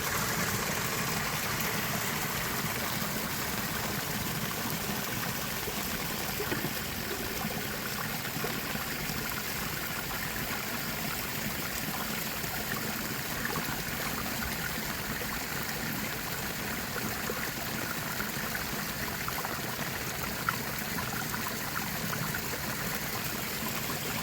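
A river swollen after heavy rain, rushing steadily. A single short knock is heard near the end.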